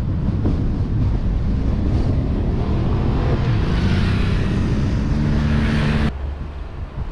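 Car driving, recorded by a suction-mounted action camera: a steady engine note under wind and road noise. The engine note and the rush of noise build from about three seconds in, then the sound drops abruptly about six seconds in.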